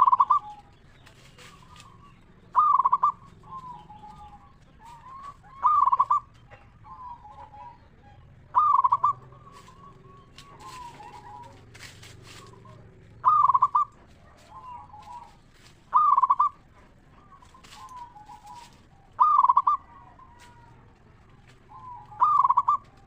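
Zebra dove (perkutut) cooing. Its song phrases repeat eight times, about every three seconds, each a loud burst followed by softer trailing coos.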